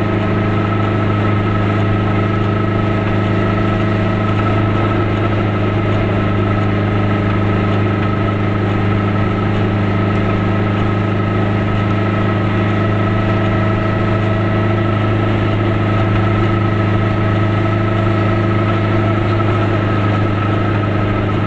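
Goggomobil's two-stroke twin engine running at a steady speed while driving, a constant drone heard from inside the cabin with road noise.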